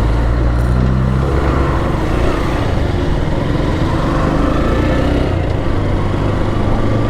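Motorcycle engine running steadily while riding in traffic, a constant hum with road and wind noise; the engine note shifts slightly about a second in and again near the end.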